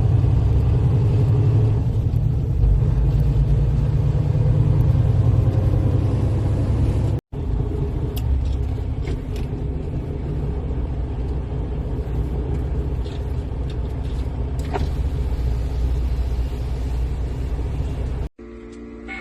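Semi-truck engine and drivetrain running on the road, a steady low drone. It drops out for an instant about seven seconds in, then carries on.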